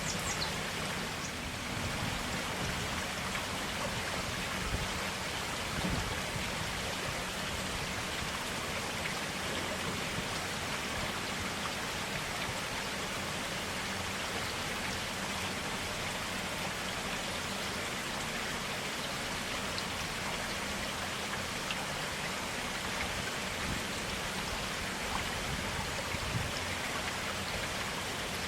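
Stream water flowing, a steady even rush with no pauses.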